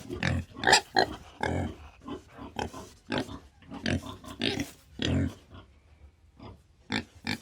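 Pig grunting in a run of short, separate grunts, about two a second.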